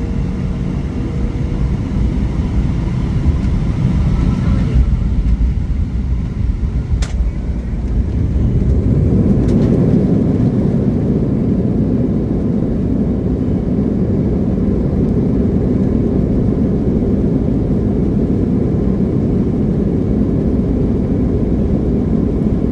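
Embraer E175 regional jet heard from inside the passenger cabin: a steady low rumble of engines and airflow that grows louder about eight seconds in. A single sharp click about seven seconds in.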